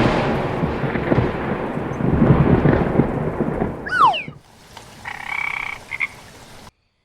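Cartoon rain with rolling thunder, then a quick falling whistle-like glide about four seconds in and a short frog croak near the end.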